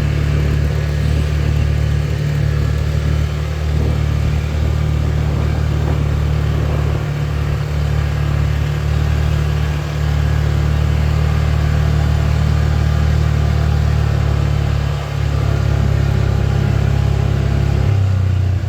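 A vehicle engine running steadily with a deep, even hum. Its pitch shifts slightly near the end.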